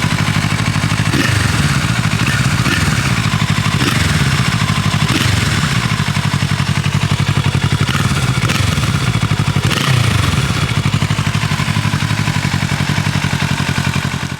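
Kawasaki Z650RS 649 cc parallel-twin engine running through an SP Tadao POWERBOX FULL 2-in-1 short exhaust, idling with a few light throttle blips. It cuts off abruptly at the end.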